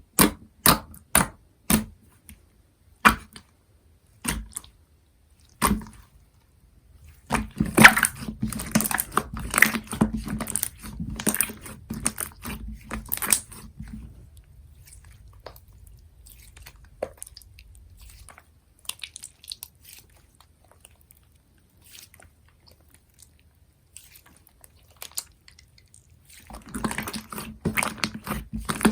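Translucent orange slime being handled: separate sticky pops in the first few seconds, then a dense run of wet crackling and squishing, a quieter spell, and more crackling near the end.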